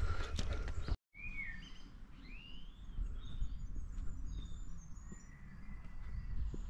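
Small songbirds chirping and whistling in short, scattered phrases over a steady low background rumble. The sound cuts out for an instant about a second in.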